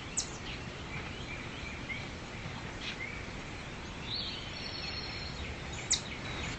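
Outdoor ambience with small birds chirping: scattered short high chirps over a steady background hiss, with two sharper high chirps, one just after the start and one near the end.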